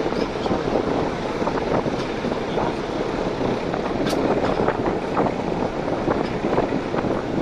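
Passenger train running along the track, heard from on board: a steady rumble of wheels on rails, with frequent short clicks and rattles and a rush of wind.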